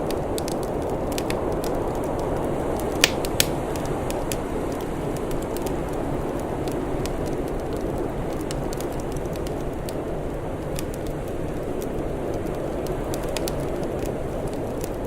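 Crackling fire: scattered sharp pops and snaps, two louder ones about three seconds in, over a steady low rushing noise.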